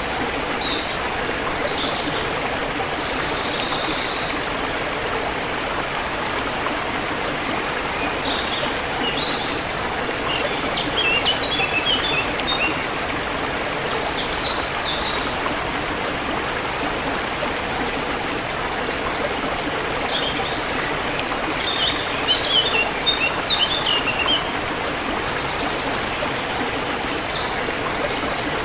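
Forest stream flowing steadily, with songbirds chirping in short bursts of high notes on and off above it, busiest around ten seconds in and again past twenty.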